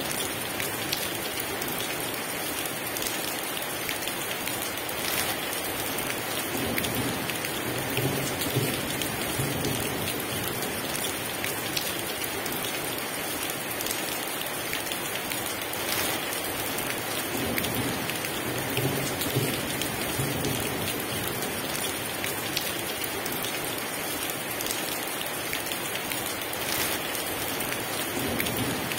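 Heavy rain falling steadily, with soft low rumbles of thunder coming and going.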